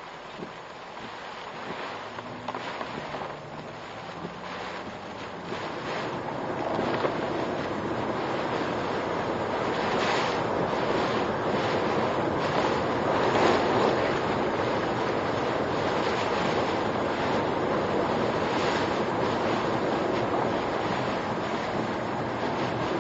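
Typhoon wind and heavy rain beating on the car, heard from inside the cabin: a steady rushing noise that grows louder about six seconds in and then holds, with brief sharper gusts.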